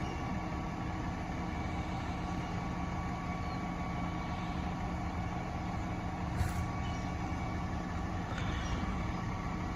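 Side-loader recycling truck's engine idling steadily, with a single brief click partway through.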